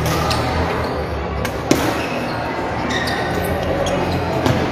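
Badminton rally: rackets striking the shuttlecock with sharp hits every second or so, the loudest near two seconds in, over the steady low din of the hall.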